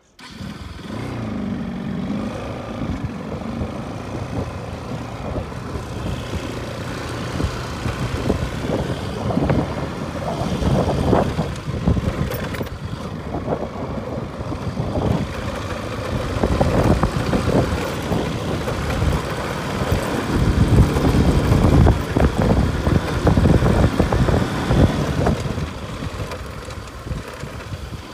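Motorcycle engine running while riding, with wind buffeting the microphone in loud gusts that get stronger in the second half.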